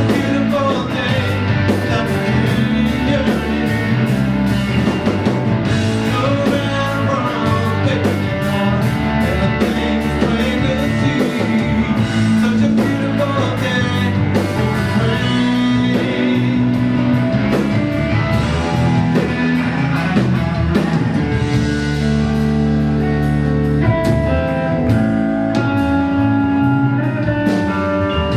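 Live band playing a blues-rock song: guitar over bass and drums, with notes bending in pitch.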